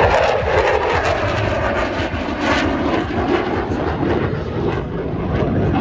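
Airplane flying past at an air show, its engine sound falling in pitch as it goes by.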